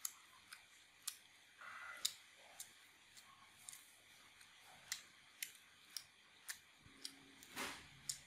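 Close-up chewing of mixed rice-paper salad: sharp clicks about twice a second, with a longer, breathier sound near the end.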